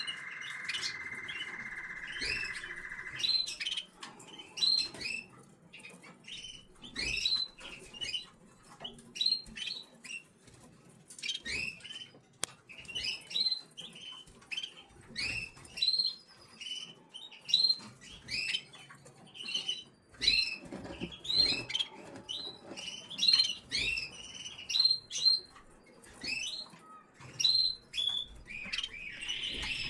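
Eleven-day-old canary chicks cheeping: many short, rising chirps in quick, irregular succession. A steady hiss runs for the first three seconds and stops.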